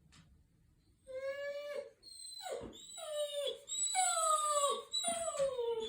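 Dog whining in a run of about five drawn-out calls starting about a second in, each sliding down in pitch.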